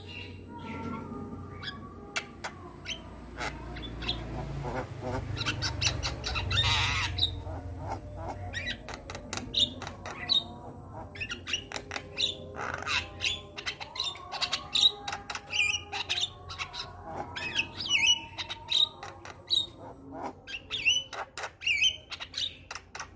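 Javan myna (jalak kebo) singing in full voice: a rapid, varied run of harsh squawks, clicks and short whistled notes, with a longer harsh note about seven seconds in.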